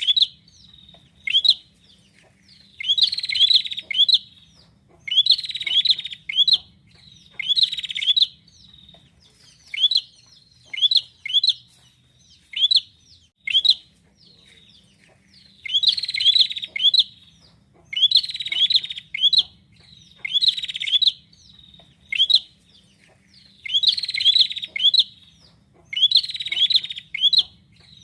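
Prenjak (prinia) calling in repeated bursts of rapid, sharp chirping notes, each about a second long and coming roughly every two seconds, with short single chips between them.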